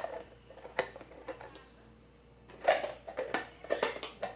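Irregular clicks and knocks of food containers and their lids being handled, about eight or nine in all, the loudest near the start and again about two and a half seconds in.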